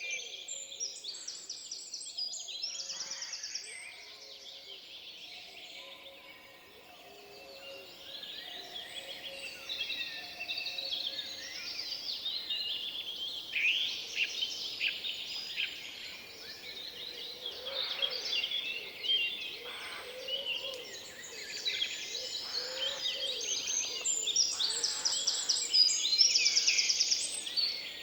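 Forest birdsong: several songbirds singing and calling over one another, with quick chirps, sweeping notes and fast trills, loudest near the end.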